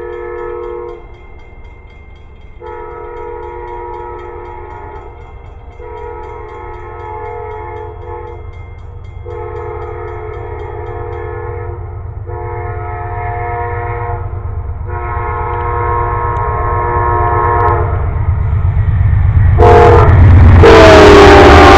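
A train's multi-tone air horn sounding a series of long blasts, each about two to three seconds with short gaps, over a low rumble that grows as the train approaches. Near the end the train passes close and loud, with a last horn blast dropping in pitch as it goes by.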